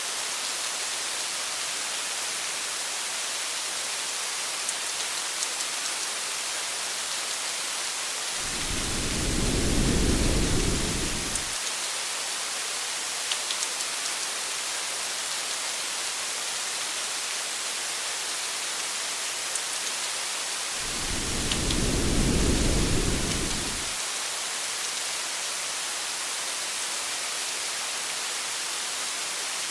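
Steady rain falling on a car, an even hiss, with two low rumbles of thunder about twelve seconds apart, each lasting around three seconds.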